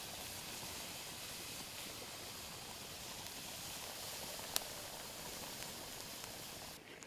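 A steady hiss with a single sharp click about four and a half seconds in; the hiss cuts off abruptly shortly before the end.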